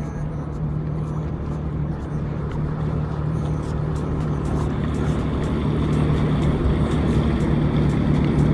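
Jet ski engine running steadily with a constant low hum, growing gradually louder.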